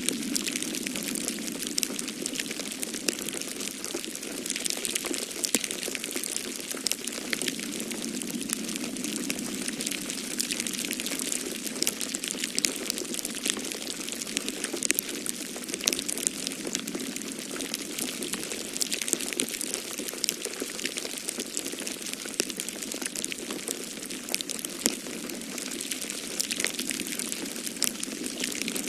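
Fireplace crackling with dense small, sharp pops over a steady rushing noise of snowstorm wind.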